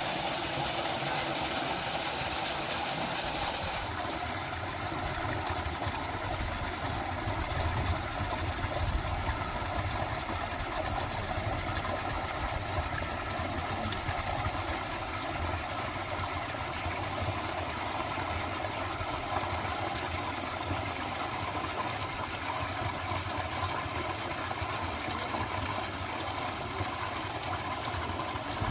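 Steady nature-sound ambience: a continuous noisy wash with a low rumble, its upper hiss changing abruptly about four seconds in.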